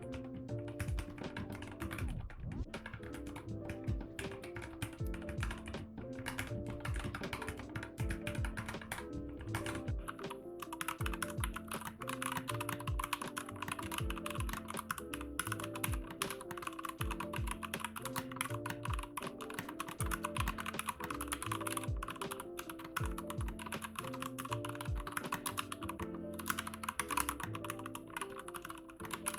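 Typing on a mechanical keyboard with Gateron Brown switches: a steady run of quick, irregular keystroke clacks, with background music underneath.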